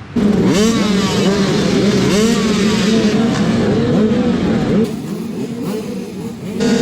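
A pack of motocross bikes revving hard together, many engine notes rising and falling in pitch over one another. It eases off about five seconds in, and a loud steady engine note comes back near the end.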